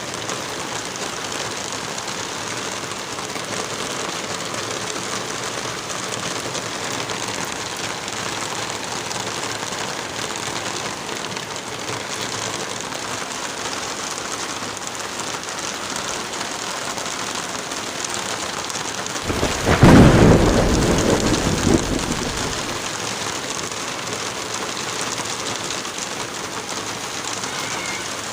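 Steady rain, with one roll of thunder about two-thirds of the way through that swells suddenly, peaks and rumbles away over a few seconds.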